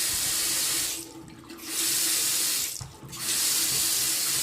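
Single-handle bathroom vanity faucet running into the sink, shut off and turned back on in spurts: water flows, stops about a second in, runs again for about a second, then comes back on near the end. The faucet is being tested after a repair of a leak at the base of its handle.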